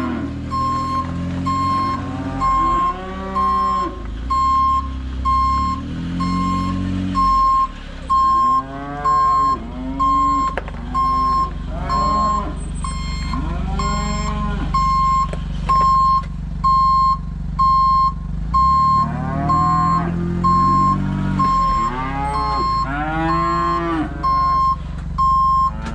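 Cows mooing again and again over a vehicle's reversing alarm beeping steadily, a little faster than once a second, with an engine running underneath.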